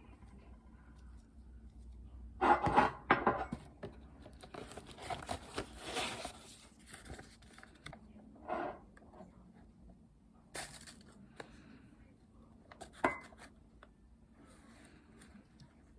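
Scattered handling sounds: a few quick knocks, a stretch of rustling, then single clicks and clinks.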